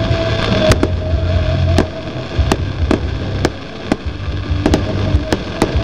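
Fireworks display: aerial shells bursting in a string of sharp bangs, about ten in six seconds and irregularly spaced, over a low rumble.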